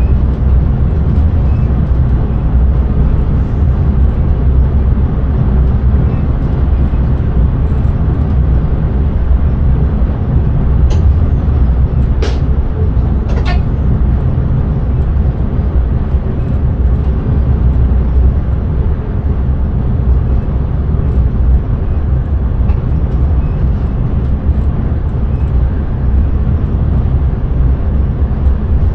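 Passenger train running at speed, heard from the driver's cab: a steady, loud low rumble of wheels on track and running gear. Three brief sharp clicks or squeaks come in quick succession about halfway through.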